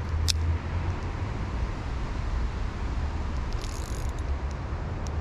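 Steady outdoor background noise, an even rushing hiss with a low rumble underneath, and one sharp click near the start.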